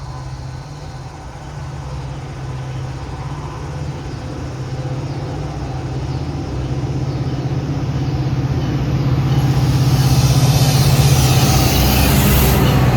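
Diesel commuter train arriving: the locomotive's low engine hum grows steadily louder. A rising hiss of wheels on rail joins about nine seconds in and is loudest near the end.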